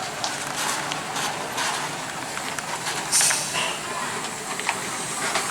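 Roadside noise around stalled heavy vehicles: a steady jumble of motor noise and background voices with scattered clicks, and a short burst of hiss about three seconds in.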